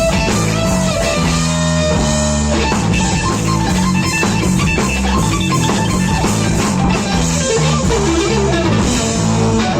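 Rock band playing an instrumental passage: electric guitar riff over bass guitar and a drum kit, with no singing.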